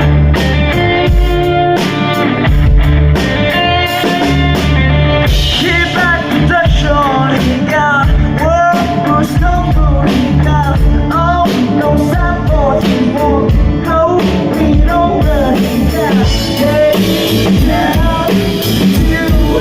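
Live band playing a song at sound check, with a singer coming in about six seconds in over the instruments.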